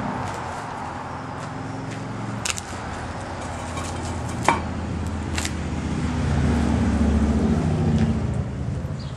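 A motor vehicle's engine running nearby, a low hum that swells louder about six to eight seconds in and then eases off. A few sharp clacks of pavers being handled sound over it.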